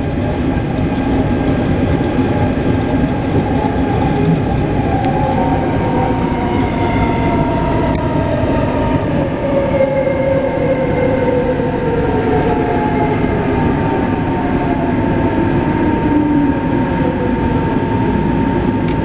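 Taipei Metro C381 train with software-modified traction inverters running, heard from inside the car: a steady rumble of wheels on rail with the motor whine, one tone holding steady while others slide down in pitch from about six seconds in.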